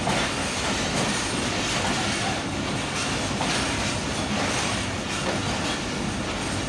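Millat Express passenger coach rolling on the rails, a steady loud running noise of steel wheels on track with faint clicks over the rail joints, heard from the open coach doorway.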